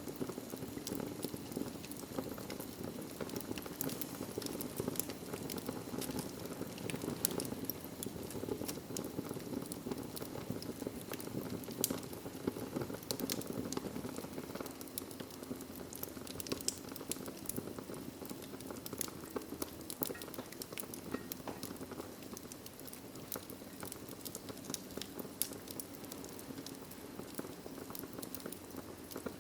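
Wood fire crackling in a fireplace: a steady low rustle of flames with frequent, irregular small pops and snaps.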